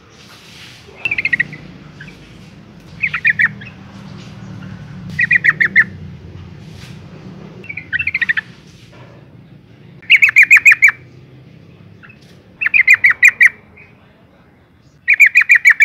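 Yellow-vented bulbul calling: seven short bursts of rapid chattering notes, one about every two and a half seconds. The uploader presents it as a female in breeding condition calling to a male.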